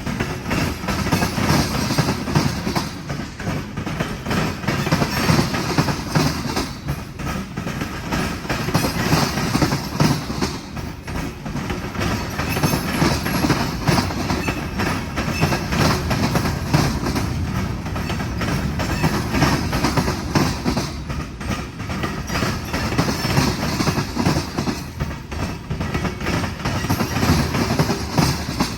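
A long freight train's cars rolling past close by, steel wheels clacking steadily over the rail joints, with a continuous rumble of the moving train.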